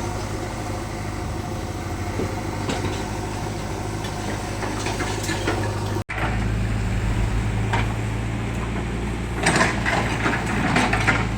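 An engine running steadily. About six seconds in the sound cuts abruptly to a louder engine hum, and a run of clattering knocks follows near the end.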